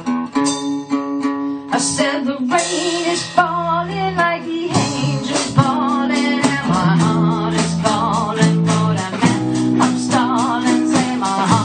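A blues-rock band playing live: guitars over a steady bass line and regular drum hits, with a wavering, vibrato-laden lead melody running over the top from a few seconds in. Recorded through a phone's microphone in a small practice room.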